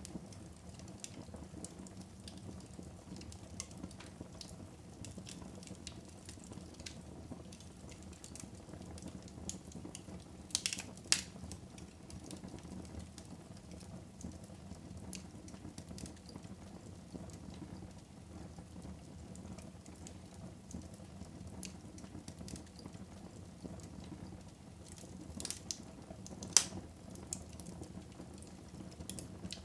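Fire burning in a fireplace: a steady low rumble of flames with scattered small crackles and ticks, and two sharp louder pops, one about eleven seconds in and one near the end.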